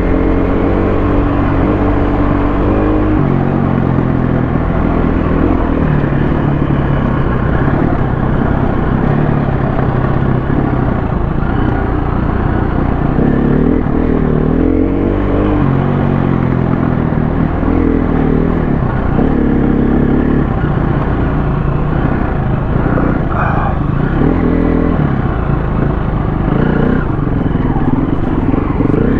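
KTM 350 dirt bike's single-cylinder four-stroke engine running hard on trail, its revs rising and falling again and again with throttle and gear changes.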